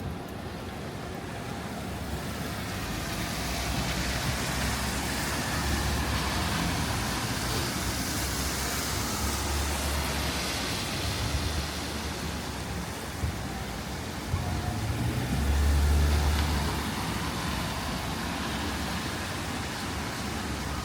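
Traffic on a wet city street: the hiss of tyres on rain-wet road over the low rumble of passing engines, swelling for several seconds and loudest about three-quarters of the way through.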